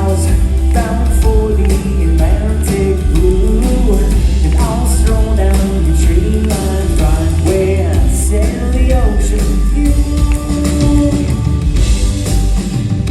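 Live pop band playing the song at full volume, with singing over a heavy, booming bass and drums, as heard from the audience.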